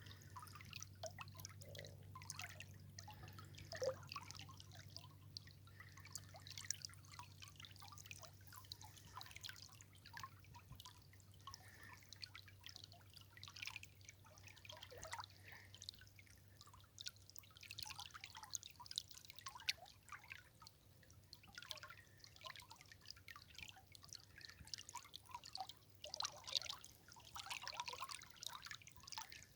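Shallow river water trickling over stones, with many small irregular drips and splashes.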